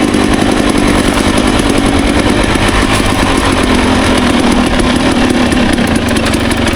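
Dirt bike engine running steadily under way on a trail ride, with a dense haze of riding noise around it.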